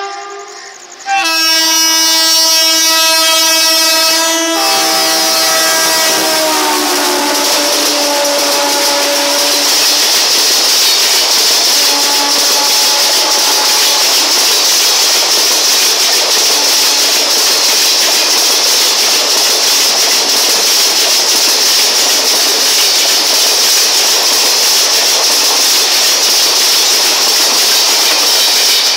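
WAP-4 electric locomotive blowing its horn as it approaches and passes at speed, the horn's pitch dropping sharply about four seconds in and sliding lower until it fades. The coaches of the express then rush past with a loud, steady clatter of wheels over rail joints.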